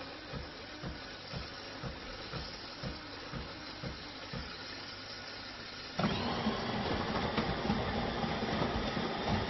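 De'Longhi Eletta Explore automatic espresso machine at work: soft low pulses about twice a second, then about six seconds in it starts running much louder and keeps a steady mechanical hum.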